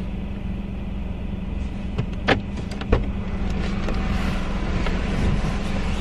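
Car engine idling, heard from inside the cabin as a steady low drone, with two sharp clicks about two and a half and three seconds in.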